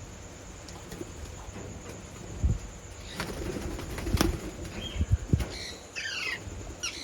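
Aviary birds giving short chirping calls over the last second and a half, among a few dull thumps.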